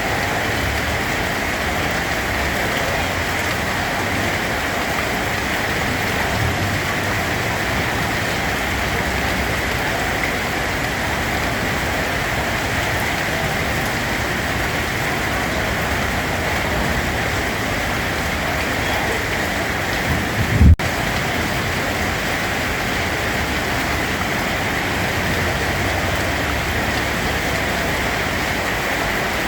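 Steady rain falling, an even, dense hiss. About two-thirds of the way through there is one brief low thump, followed at once by a split-second dropout.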